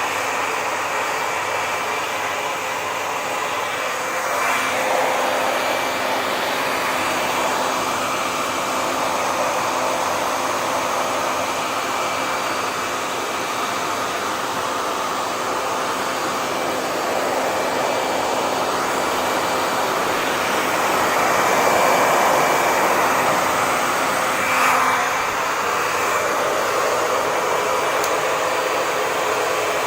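Electric hair dryer running steadily: a continuous rush of air with a faint motor whine. It swells briefly about four seconds in and again near the end, and a low hum comes in with the first swell and drops out with the second.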